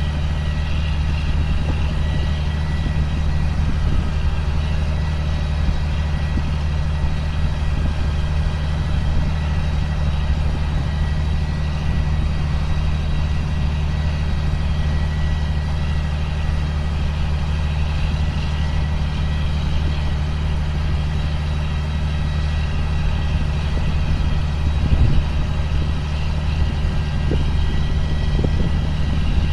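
2005 John Deere self-propelled sprayer's diesel engine running steadily, a constant low drone with a thin steady whine higher up. A brief knock about 25 seconds in.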